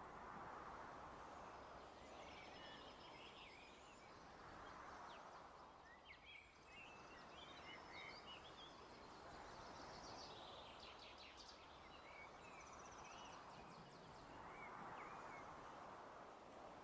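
Faint natural outdoor ambience: a soft rushing sound that swells and fades about every five seconds, like gentle waves or a breeze, with small birds chirping and trilling over it through the middle.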